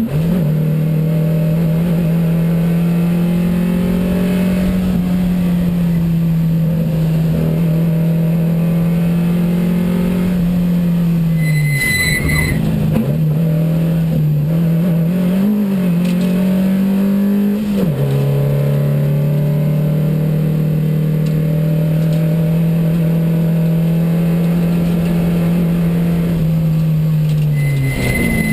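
A Porsche 914 race car's 2270 cc flat-four engine, heard from inside the cockpit, running at a steady high pitch. The note sags and recovers around ten to seventeen seconds in, drops suddenly at an upshift about eighteen seconds in, holds steady again and falls off near the end. A short high electronic beep sounds twice, about twelve seconds in and at the very end.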